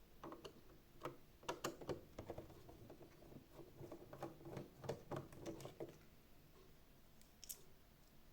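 Faint, irregular clicks and light taps of a robot vacuum's plastic parts and tools being handled while it is taken apart, bunched in the first six seconds, with only a couple of faint ticks after.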